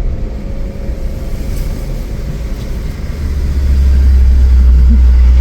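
A car coming close, its low engine and tyre rumble growing much louder about three seconds in.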